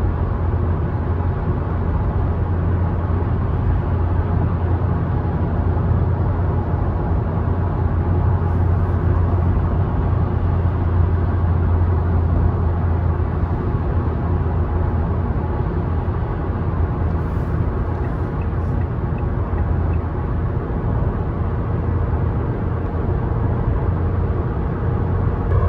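Car driving along a road: a steady rumble of tyre and road noise with the engine's hum underneath.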